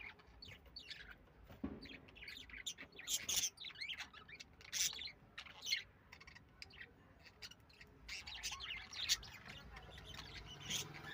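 Lovebirds chirping: a busy, irregular stream of short, sharp, high-pitched chirps, loudest between about three and six seconds in.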